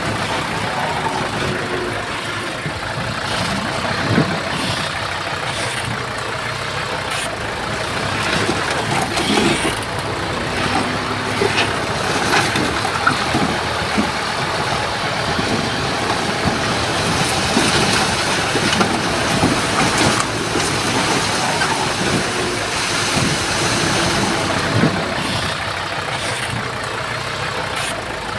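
Heavy diesel earthmoving machinery running steadily, with repeated short knocks and clatter throughout.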